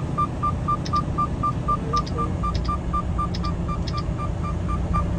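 A single-tone electronic beep repeating evenly about three to four times a second, over the steady low rumble of a truck's engine and road noise in the cab.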